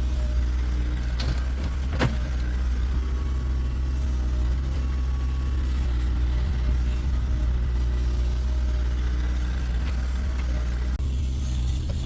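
A vehicle engine running steadily at a constant speed, with a sharp click about two seconds in.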